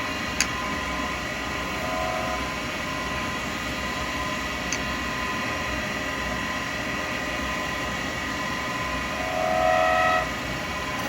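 A wood lathe runs with a steady, many-toned hum while a carbide cutter works an acrylic pen blank held between centres. The cut rises to a louder whine briefly about two seconds in and again for about a second near the end, with a single sharp tick near the start.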